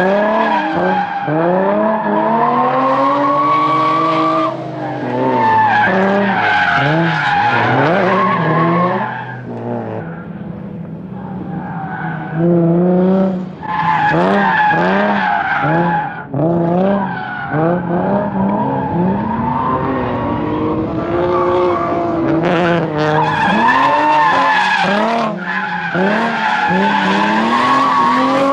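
Turbocharged Nissan VQ V6 drift car revving up and down over and over as it slides through linked corners, tyres squealing and skidding. The engine drops back for a couple of seconds about ten seconds in, then picks up again.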